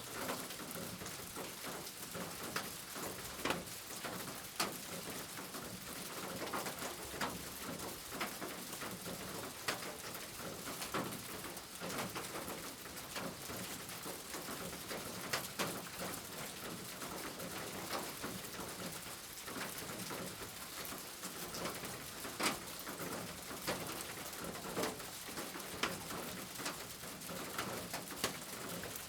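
Steady rain hissing, with frequent sharp drips and drops striking a hard surface close by at an irregular pace.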